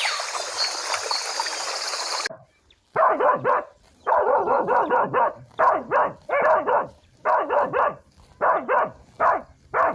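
A steady rushing noise cuts off sharply about two seconds in. Then a dog barks in quick runs of two to four barks, over and over.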